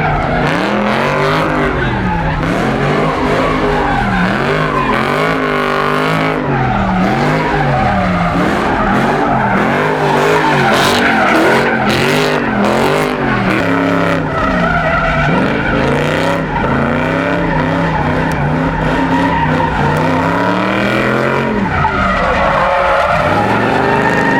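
Car engine revving up and down over and over, about once a second, with tires screeching under wheelspin: a car sliding and drifting in a parking lot.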